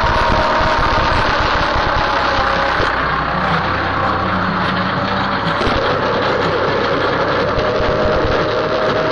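Tractor engine running steadily as the tractor works, its pitch shifting slightly a few times.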